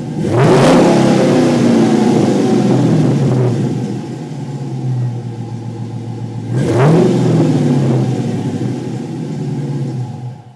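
2011 Dodge Challenger SRT8 392's 6.4-litre HEMI V8 running through a Flowmaster American Thunder Super 40 three-inch cat-back exhaust, idling and revved twice. The revs come about a third of a second in and around six and a half seconds in, each pitch rising sharply and then falling back to idle. The sound stops near the end.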